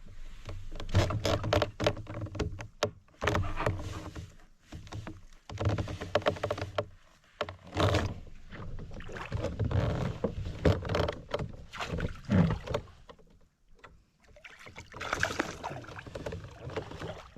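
Irregular knocks, bumps and handling noise on a plastic fishing kayak, coming in uneven bursts with short quiet gaps.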